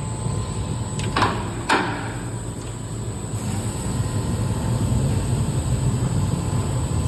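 Automatic horizontal foam block cutting machine running with a steady low hum, broken by two short knocks about a second and a half in.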